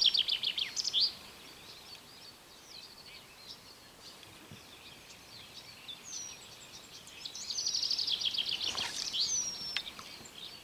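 A songbird singing two song phrases, each a quick run of high, rapidly repeated notes lasting about a second and a half: one right at the start and one past the middle. A short falling whistle is heard between them.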